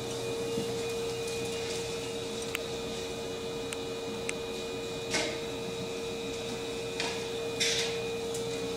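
Steady electrical hum of an electric train car's on-board equipment, with one held mid-pitched tone. A few short hissing bursts come about five, seven and seven and a half seconds in.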